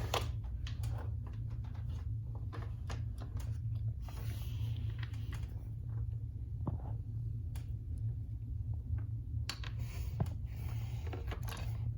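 Scattered light clicks, taps and rustles of toys being handled, over a steady low hum.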